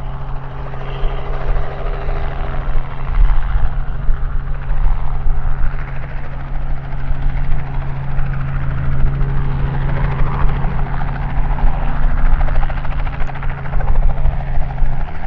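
Robinson R44 Clipper II helicopter running close by: its six-cylinder Lycoming piston engine and two-blade rotor make a loud, steady low drone, swelling a little midway.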